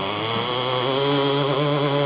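Small engine of a 1/5-scale R/C pulling tractor running at steady high revs, with a slightly wavering pitch. The revs settle and hold about half a second in.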